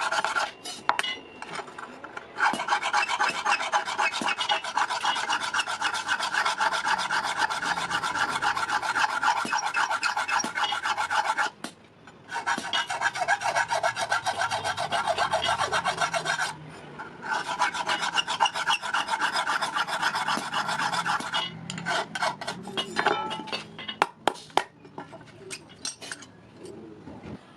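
Steel being filed by hand: fast, continuous rasping strokes in three long runs with two short pauses, then scattered light taps and clicks near the end.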